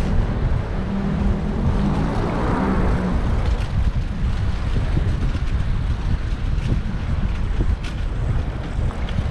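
Wind rumbling on a bicycle-mounted action camera's microphone while riding in road traffic, with the sound of motor vehicles going by; a pitched engine hum stands out in the first few seconds.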